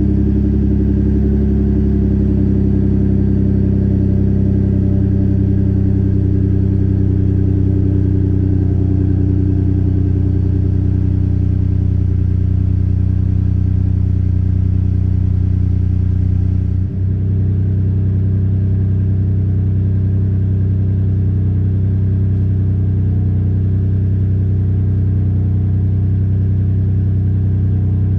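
Ford 3.5 EcoBoost twin-turbo V6 idling steadily just after a cold start, heard through a Flowmaster Delta 50 muffler and 18-inch glass pack exhaust. About two-thirds of the way through, the sound shifts slightly with a brief dip.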